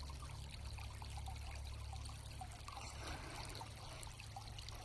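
Shallow creek water trickling steadily, faint.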